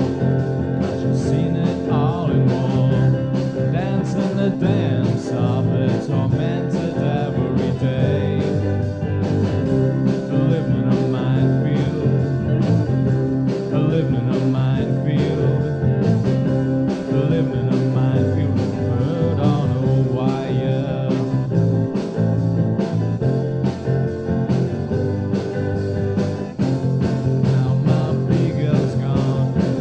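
A band playing a rock-tinged country song with a steady drum beat under sustained bass and other instruments.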